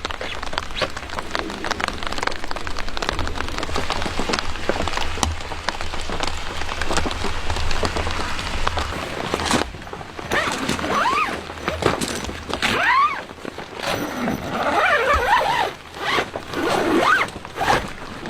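Steady rain pattering, then from about halfway several short rasping strokes, each with a sweeping pitch.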